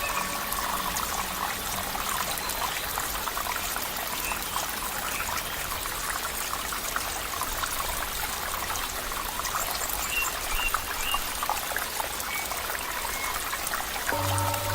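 Water trickling and splashing steadily, with many small droplet splashes. A low steady tone comes in near the end.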